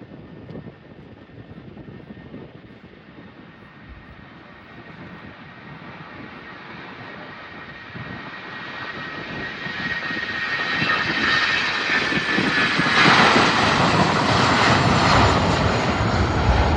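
Aircraft engines growing steadily louder as the plane approaches: a rushing noise with a high whine that drifts slightly lower, loudest over the last few seconds.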